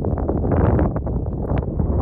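Wind buffeting the microphone, a loud low rumble broken by many short irregular knocks and rustles.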